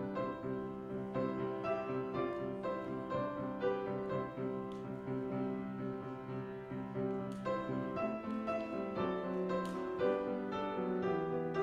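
Piano music: a steady flow of struck notes over held bass notes.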